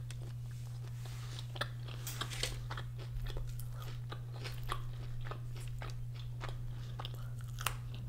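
Close-miked chewing of a mouthful of loaded fries with cheese and chicken: scattered soft wet clicks and crunches, with a steady low hum underneath.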